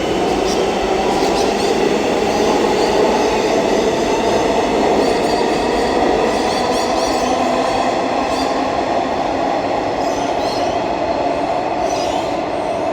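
Electric suburban train moving through the station: a loud, steady running noise with a thin high whine and scattered wheel-on-rail clicks, easing slightly near the end.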